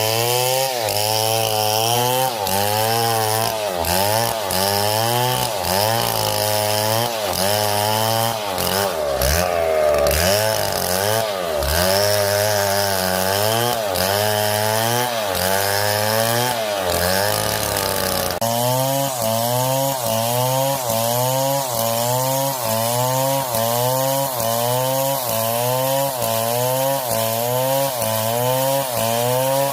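Chainsaw engine running, its pitch wavering up and down about once a second as it works; the sound shifts abruptly about two-thirds of the way through.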